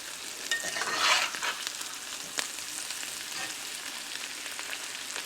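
Sliced potatoes frying in hot grease, a steady sizzle as they brown and crisp, with a few faint clicks.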